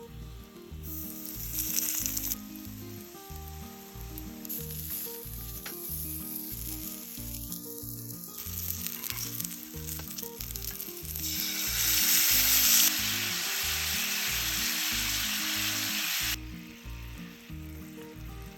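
Hamburger steak patties sizzling as they cook over a campfire. The sizzle grows louder about two-thirds of the way through, then drops back abruptly. Background music with low bass notes plays underneath.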